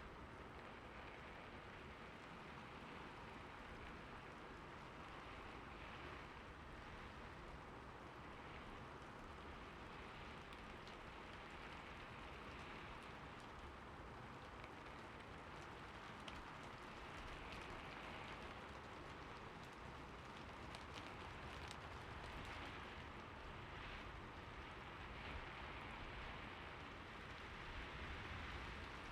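Gentle, steady rainfall: a soft even hiss with scattered faint drop ticks.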